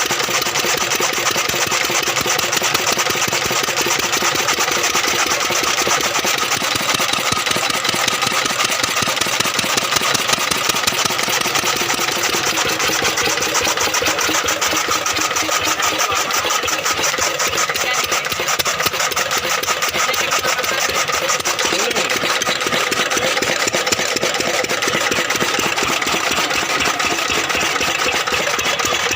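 A 10-horsepower engine running steadily with a fast, even firing beat.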